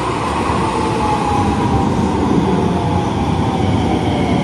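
Electric passenger train pulling into a station platform: a loud rumble of the cars rolling past, with a whine that falls in pitch as the train slows to a stop.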